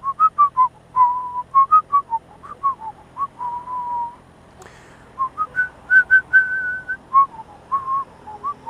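A person whistling a tune, short notes and a few held ones in phrases with brief gaps, over a faint low engine hum.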